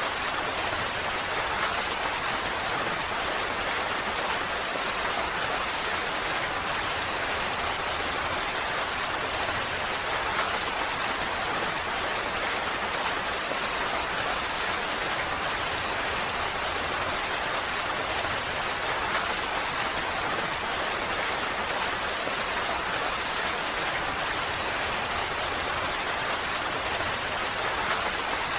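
Steady rain falling, an even hiss of drops with faint individual drop ticks, unchanging throughout.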